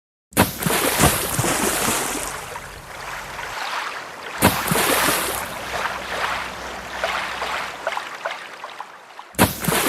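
Water splashing and sloshing against a kayak, with sharp little splashes among a steady wash; it cuts in abruptly three times, each time loud at first and then easing off.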